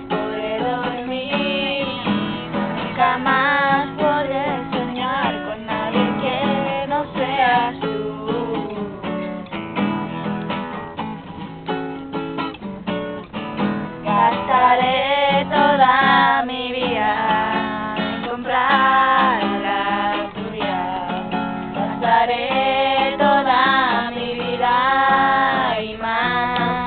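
Singing voices with a strummed acoustic guitar.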